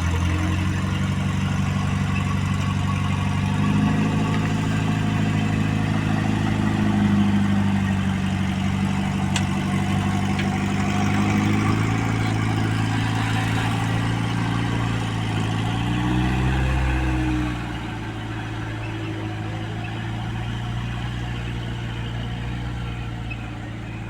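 4x4 vehicle engine running at low revs, its note rising and falling as the throttle changes. It gets quieter about three-quarters of the way through.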